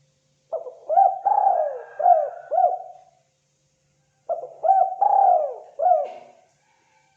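Spotted dove cooing: two phrases of several gliding coo notes each, the first about half a second in and the second about four seconds in.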